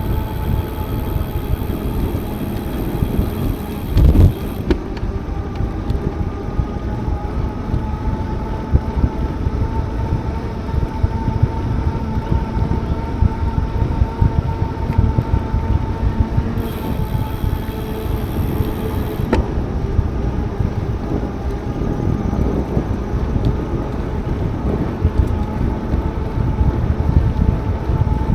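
Wind buffeting the microphone and rolling noise from a bicycle being ridden, with a faint steady whine throughout and one thump about four seconds in.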